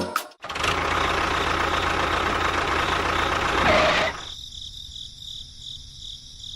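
A loud, steady, engine-like mechanical running noise that cuts off abruptly about four seconds in. It is followed by a fainter high-pitched chirping that pulses evenly.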